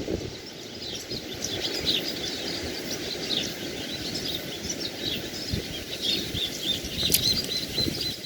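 Many birds chirping in quick, overlapping short high calls over a steady low rush of surf on the beach.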